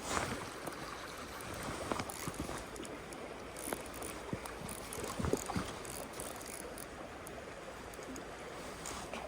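Small mountain stream flowing steadily, with a few scattered light clicks and knocks.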